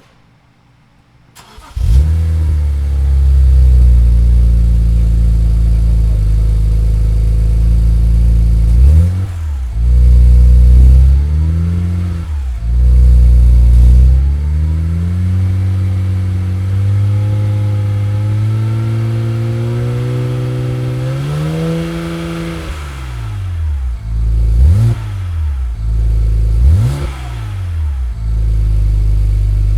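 BMW engine exhaling through a newly fitted free-flow stainless muffler exhaust: it starts about a second and a half in, settles to idle, and is revved several times. There are a few quick revs, a long slow rev up and back down a bit past halfway, and two sharp blips near the end.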